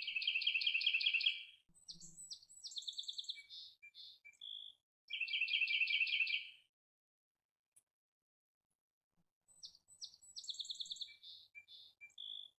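Songbird singing: a rapid trill of about a second and a half alternating with a phrase of varied quick chirps and clear whistles, twice over, with a short pause midway.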